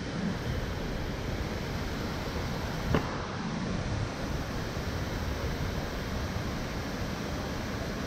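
Steady rushing roar of Nachi Falls, a tall plunging waterfall, with a single sharp click about three seconds in.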